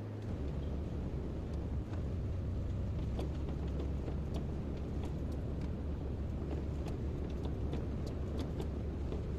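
Kobelco excavator's diesel engine running steadily with a deep hum, which drops lower and gets louder about a third of a second in. Faint light clicks come through over it from about three seconds on.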